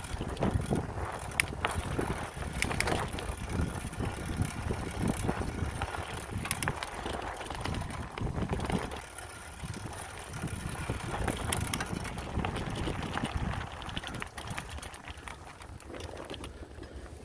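Bicycle being ridden over a rough dirt trail: tyres running over the ground with many small clicks and knocks from the bike, and wind rumbling on the microphone.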